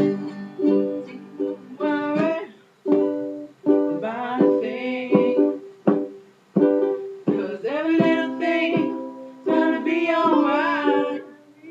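Ukulele strumming chords in short, separate strokes, with wordless sung ad-libs over it, as the song closes.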